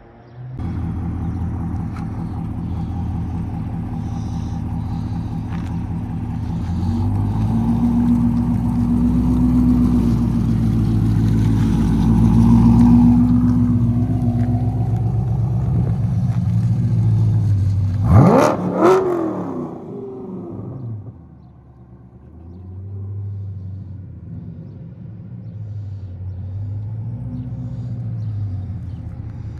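A car engine running, louder for several seconds, then revved once sharply about two-thirds of the way through. After the rev it drops back to a lower, quieter idle.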